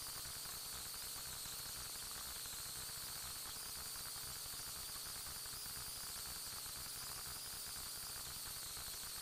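Steady static hiss with a thin, high, slightly wavering tone running through it, and no distinct events.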